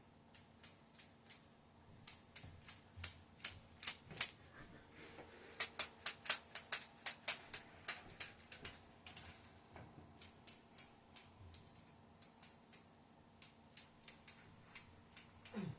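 Rubik's Snake's plastic segments clicking as they are twisted: an irregular run of sharp clicks, most closely packed from about five to eight seconds in, then sparser.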